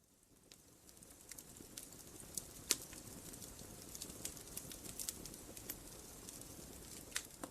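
Faint crackling: a steady hiss with irregular sharp pops and snaps scattered through it, fading in at the start.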